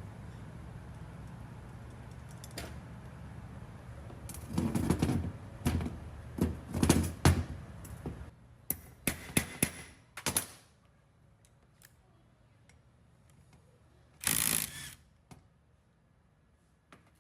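A run of sharp knocks and clatter of hard parts being handled, over a steady low hum that stops about 8 s in. One more short burst of clatter comes a few seconds later.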